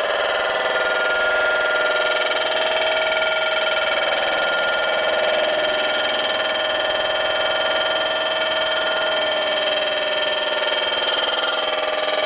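Machine-tool cutter taking a cut across a chromed motorcycle primary cover, giving a steady ringing whine that wavers slightly in pitch.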